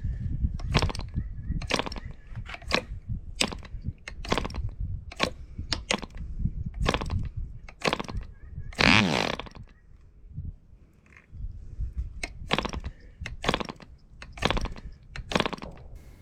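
Webra 1.5 cc model diesel engine being flipped over by hand, giving a short sharp snap through compression on each flip, roughly once a second, without starting. About nine seconds in there is one longer, louder burst. The engine is drawing hardly any fuel: the choking with a finger over the venturi is too brief to prime it.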